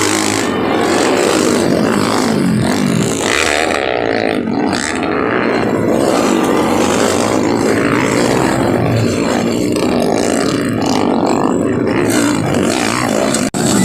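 Several underbone motorcycle engines revving hard at once, their pitches rising and falling as the riders work the throttles.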